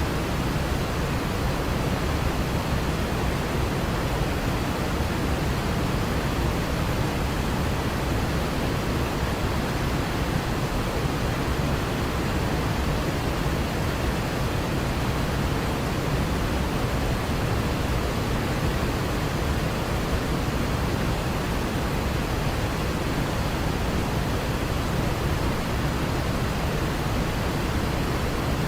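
Waterfall: the steady, unbroken rush of falling water, even and deep-toned with no changes.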